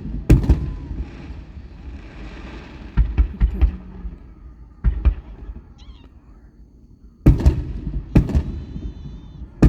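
Aerial fireworks going off: a series of sharp booms at irregular intervals, some in quick succession, with a crackling hiss after the first one.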